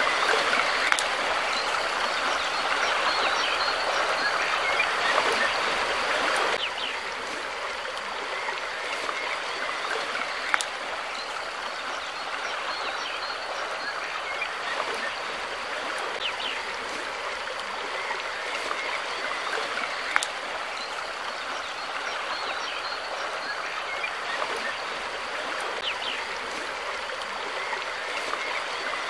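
Stream water flowing and splashing in a steady rush. About six seconds in it drops suddenly to a somewhat quieter level, with an occasional sharp tick.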